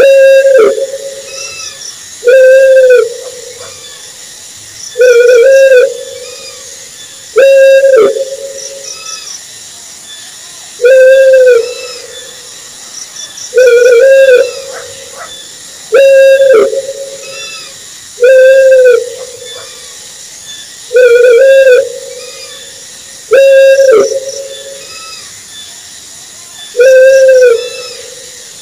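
Owl hooting: a single loud hoot that rises and falls in pitch, repeated evenly about every two and a half seconds, around eleven times. Faint high chirping in short clusters runs underneath.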